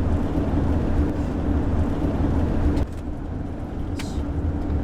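Road and engine noise inside a moving car: a steady low rumble with a constant hum and tyre hiss, the hiss easing a little about three seconds in.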